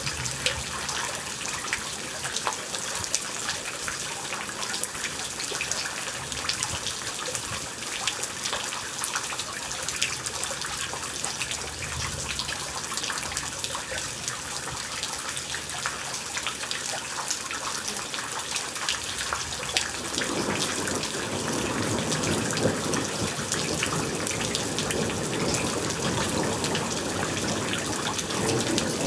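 Heavy rain falling in a steady rush, with dense pattering of drops. About twenty seconds in it grows louder and fuller as the downpour strengthens.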